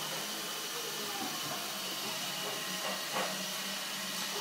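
Roomba robot vacuum running on a tabletop: a steady hiss from its suction fan with a low hum underneath.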